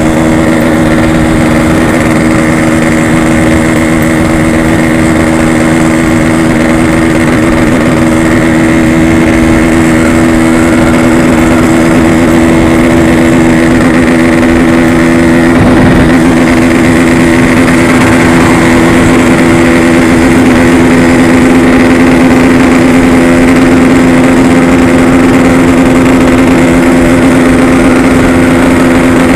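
Yamaha RX-King's two-stroke single-cylinder engine running under way at a steady, nearly constant pitch, with road and wind noise underneath.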